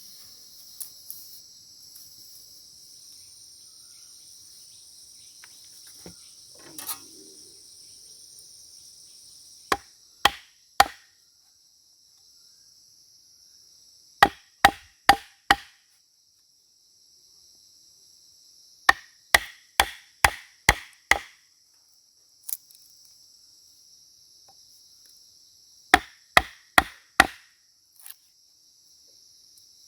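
Wood being chopped with a hatchet or struck with a tool, in quick bursts of three to six sharp blows separated by pauses. A steady high chirring of insects runs underneath.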